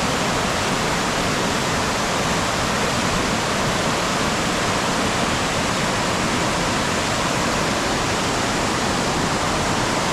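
Water pouring steadily over a man-made waterfall, an even rushing sound with no breaks.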